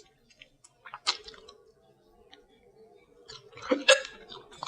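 Close-miked eating sounds: chewing and wet mouth sounds, with a short sharp crackle about a second in and a denser cluster of wet sounds near the end.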